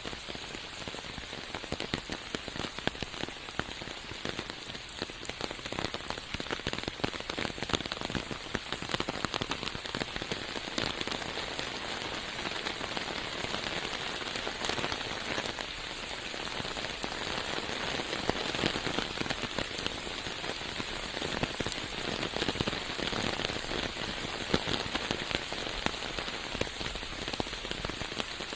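Steady rain falling, with many sharp individual drops striking close by.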